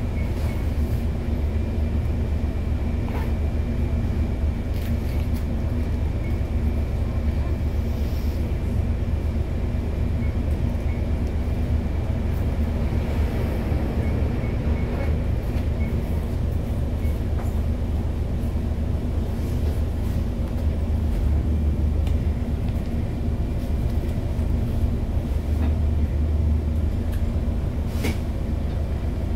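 Steady low engine rumble of idling vehicles, heard through the glass from inside a stationary vehicle, with a few faint clicks.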